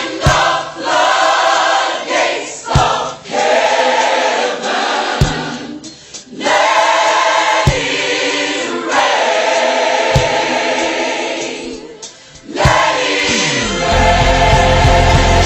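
Gospel choir singing long held chords, with a deep thump about every two and a half seconds. Near the end the full band comes in with a heavy bass beat.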